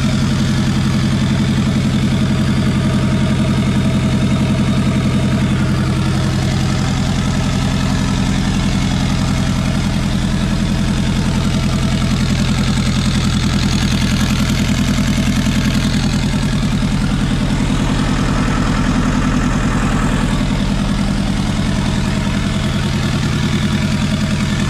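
Turbocharged Honda H22A four-cylinder engine idling steadily on its first start-up, running on a base map with fuel added after it ran lean.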